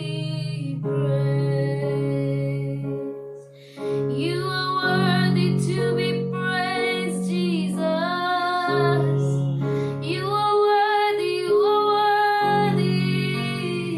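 A woman singing a slow worship song over a sustained instrumental accompaniment, with a brief pause in the singing about three and a half seconds in.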